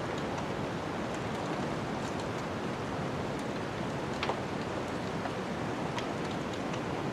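Wood fire crackling, with scattered small pops and one sharper pop about four seconds in, over a steady rushing noise like storm wind.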